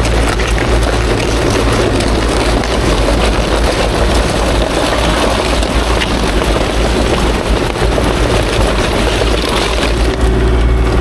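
Kubota KX040-4 mini excavator's diesel engine running steadily with a constant low drone, overlaid with a broad mechanical noise.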